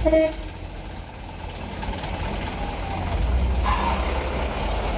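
Heavy truck engine running with a deep rumble that grows louder about three seconds in, opened by a brief loud pitched blast like a horn.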